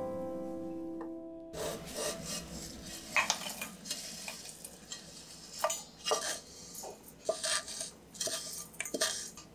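A dry, crumbly roasted mixture of peanuts, coconut and sesame scraped out of a nonstick frying pan into a stainless-steel grinder jar: irregular scraping with scattered sharp clicks as the pan and utensil touch the jar and the nuts drop in.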